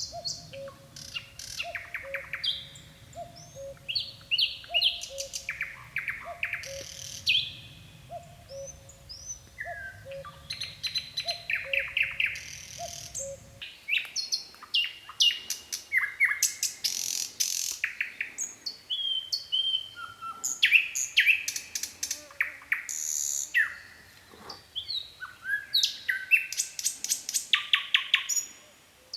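Nightingale singing varied phrases of fast trills made of rapidly repeated notes, mixed with short whistles and glides. Through the first half a low two-note call repeats about once a second under a low hum; both stop about halfway through.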